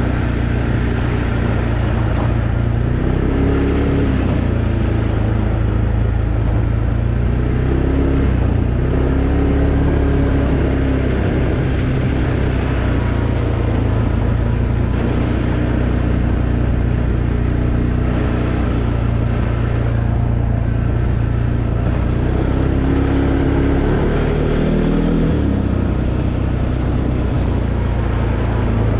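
2020 Arctic Cat Alterra 700 EPS ATV's single-cylinder engine running under way, its pitch rising and falling with the throttle several times, with a short drop about 25 seconds in.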